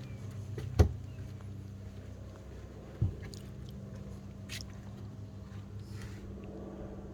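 Two dull, low thumps, about a second in and again about three seconds in, over a steady low hum and faint outdoor background with a few high chirps.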